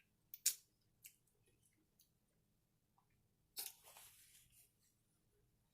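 Faint, close-miked eating sounds: a sharp mouth click about half a second in, then about a second of chewing on fried food a little past the middle.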